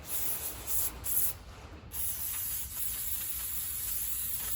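Aerosol can of brake cleaner spraying: two short hissing blasts, then one long steady spray lasting nearly three seconds.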